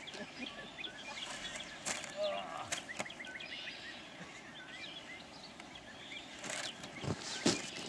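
Small birds chirping in quick trills, with a few soft knocks and a little faint outdoor noise.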